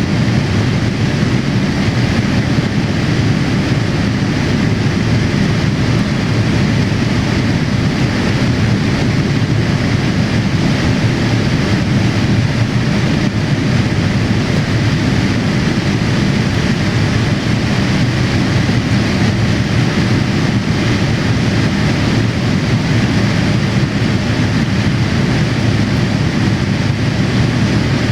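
Steady rumble and rushing air inside the passenger cabin of an ANA Boeing 787-8 airliner, from its engines and the air around it, holding an even level throughout.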